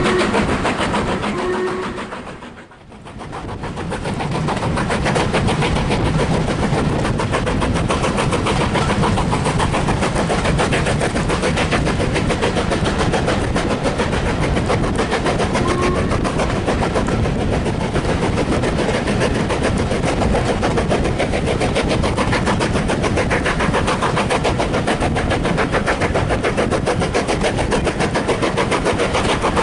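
Heritage train running, a loud continuous fast rattle and rumble of the moving train. The sound dips sharply for a moment about three seconds in, then comes back at full level.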